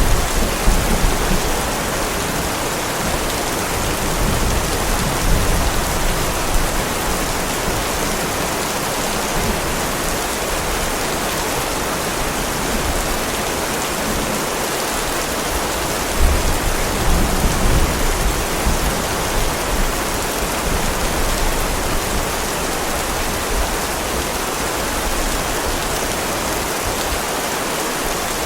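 Heavy rain falling steadily, with low rolls of thunder: one trailing off just after the start, and another swelling about halfway through.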